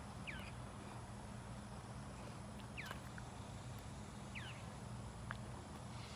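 Backyard ambience: a few short, downward-sweeping bird chirps, four spread across the stretch, over a steady low hum.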